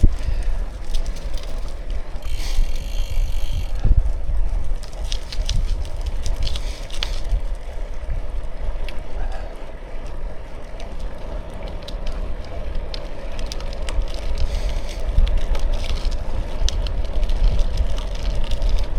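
Bicycle riding along, tyres rolling over a rough surface with many small crackling clicks, over a steady low wind rumble on the microphone. A brief buzzing rattle comes about two and a half seconds in.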